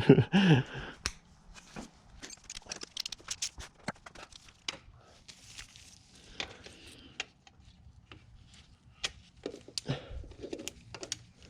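Irregular light clicks, taps and rustling of hand tools and parts being handled, with a louder clatter right at the start.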